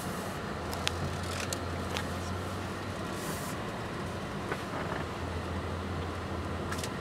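Cabin sound of a 2010 Lexus RX350 with its 3.5-litre V6 running as it moves off slowly: a steady low hum, with a few light clicks about one and two seconds in and again near the end.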